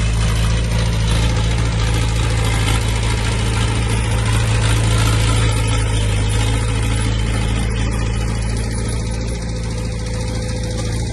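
Heavy diesel engine of earthmoving machinery running steadily at low speed, a deep even hum; the higher noise above it thins out over the last few seconds.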